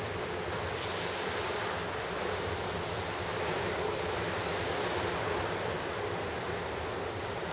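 Pacific surf washing onto the shore in a steady wash of noise that swells gently as a wave comes in, with some wind on the microphone.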